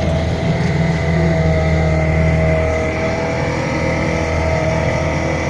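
Motor launch's engine running steadily at a constant pitch.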